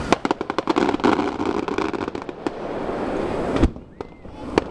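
Aerial fireworks crackling: a rapid run of sharp pops for the first two and a half seconds, then two louder single bangs near the end.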